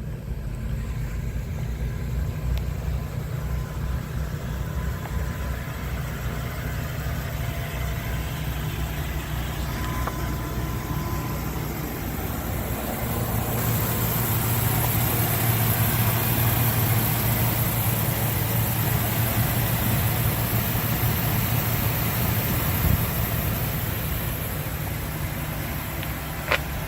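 2019 Ford E-450's 6.8-litre V10 gasoline engine idling steadily, its low hum growing louder from about halfway through.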